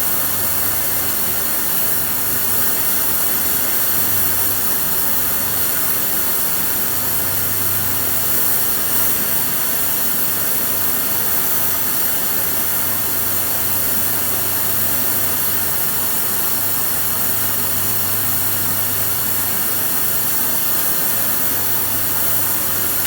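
A shop machine running steadily, a constant whirring hiss with a low hum beneath, unchanged throughout.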